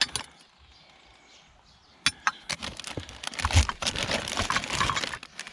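Rustling and crinkling of items being handled and moved about, with a few clicks and a low thump about three and a half seconds in.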